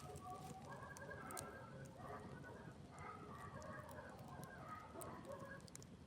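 Campfire crackling faintly with a few sharp pops, with faint animal calls in the background.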